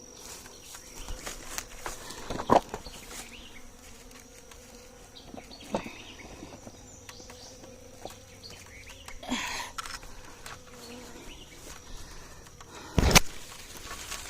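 Honeybees buzzing around the wrecked hives, a faint steady drone. Four sharp knocks and rustles of handling and movement break in, the loudest near the end.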